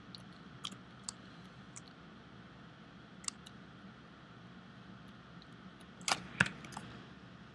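Scattered clicks of a computer mouse and keyboard: a few single clicks, then a quick cluster of louder clicks about six seconds in, over a faint steady background hum.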